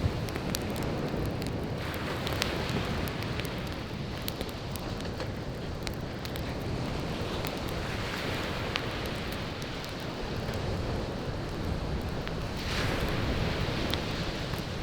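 Firewood burning in a campfire, crackling with scattered sharp pops, over the steady wash of breaking ocean waves. The surf swells up three times, the strongest surge near the end.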